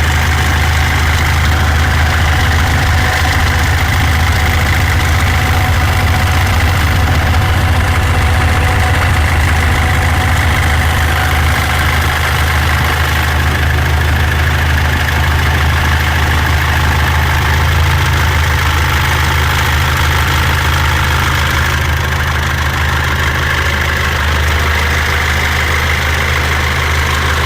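Mitsubishi L200 Triton 3.2 turbodiesel engine idling steadily, with a rattle likened to a rattlesnake coming from the timing chain: a worn, slack timing chain.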